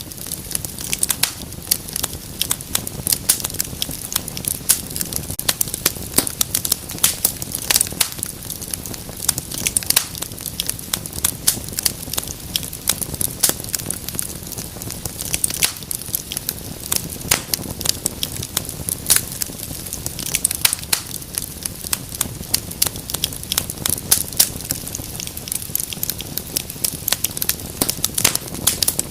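Wood fire crackling steadily in a fireplace: dense, irregular sharp pops and snaps over a low rumble of burning.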